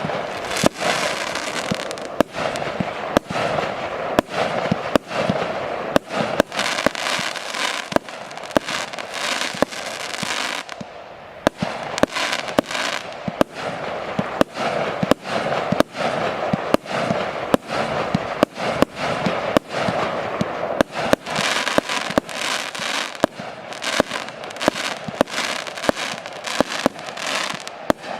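A 100-shot, 20 mm (0.8-inch) fireworks cake firing its shots one after another, about one to two sharp bangs a second, with a continuous hiss between them.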